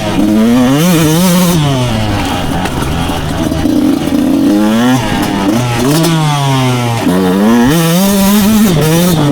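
Two-stroke motocross bike engine revving hard, its pitch climbing and dropping over and over as the throttle is opened and shut.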